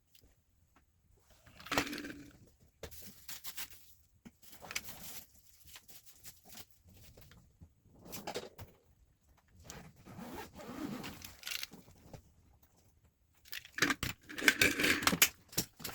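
Irregular scraping and rustling with sharp clicks, in short bursts, the loudest cluster near the end: objects being handled by hand.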